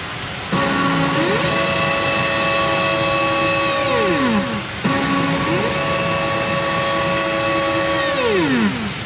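Pachinko machine's electronic jingle for a ball going in: a held synthesized tone that steps up in pitch, holds, then slides down. The phrase plays twice.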